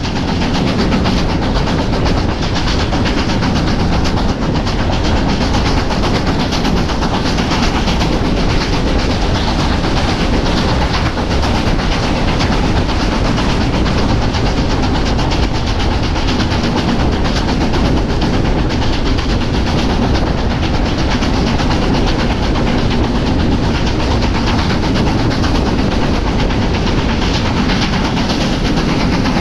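Heritage railway train running along the track, a steady noise of wheels on rails.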